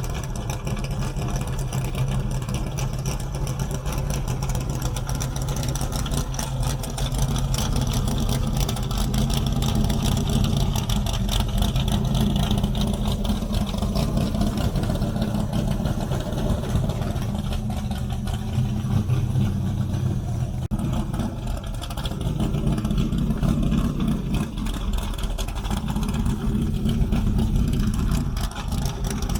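A car engine running with a steady low rumble, its pitch and level shifting a little now and then.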